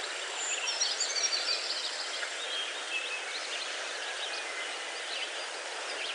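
Birds chirping over a steady background hiss.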